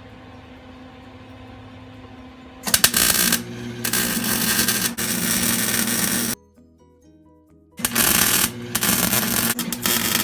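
Electric welder tack-welding steel angle iron for a motor mount: two loud stretches of welding, the first starting about two and a half seconds in and lasting nearly four seconds, the second starting about eight seconds in, over quieter background music.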